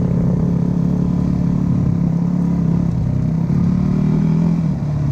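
Dirt bike engine running steadily, its pitch wavering slightly, with a brief dip in level near the end.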